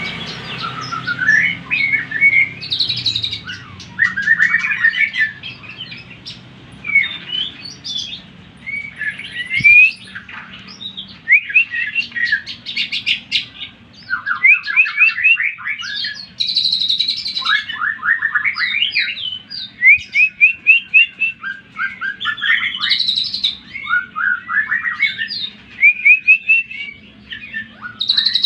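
Cucak ijo (green leafbird) singing nonstop: a fast, varied song of rapid trills and runs of short rising notes, with hardly a pause.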